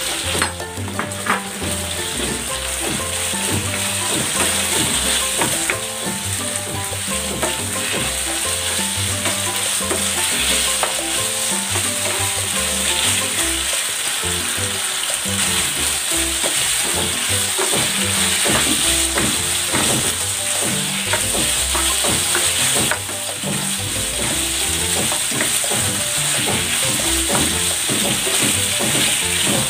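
Marinated chicken breast strips sizzling as they stir-fry in hot oil in a nonstick pan, with a spatula scraping and clicking against the pan as they are stirred.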